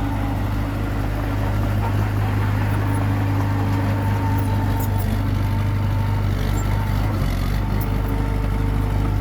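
Komatsu D21P bulldozer's diesel engine running steadily under work, with a change in the engine note about seven seconds in.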